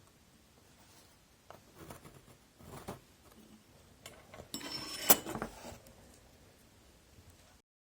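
Small hard parts being handled on a workbench: irregular scrapes, rattles and clicks, with one sharp knock about five seconds in.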